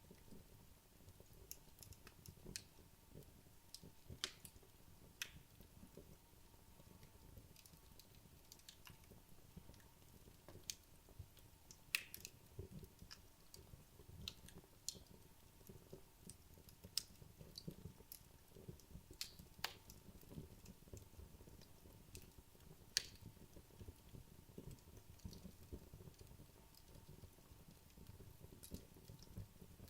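Wood logs burning in a fireplace, crackling faintly with irregular sharp pops and snaps over a soft low rumble; a few pops stand out loudly.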